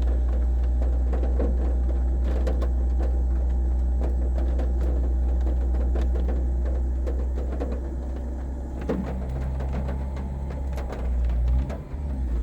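Car engine running at a steady, deep drone while warming up. It eases off about eight seconds in, with a couple of brief swells in level near the end.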